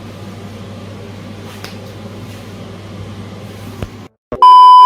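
A steady low mechanical hum, which cuts off abruptly about four seconds in. Then comes a very loud beep at one high pitch: an edited-in bleep tone.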